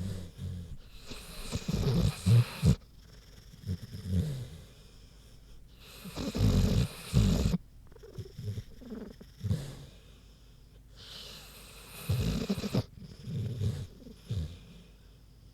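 American bulldog snoring while asleep: three loud snores about five seconds apart, with softer breaths between them.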